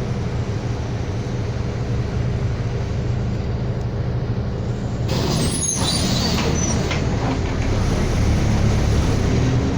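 City bus running, its engine drone steady and growing a little louder toward the end. About halfway through comes a burst of hissing air from the bus's pneumatics.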